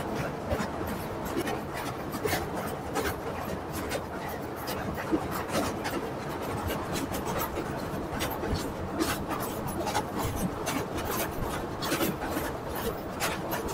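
Train running across a steel truss bridge, heard from an open coach door: a steady rushing rumble of wheels on rails and wind, with many irregular sharp clicks and knocks.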